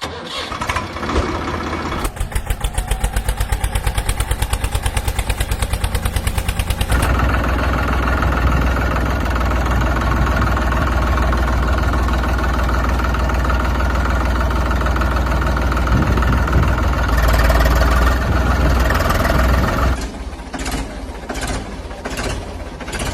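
Tractor engine starting and running: a fast, even chugging from about two seconds in, settling into a steadier run about seven seconds in, then breaking into uneven knocks near the end.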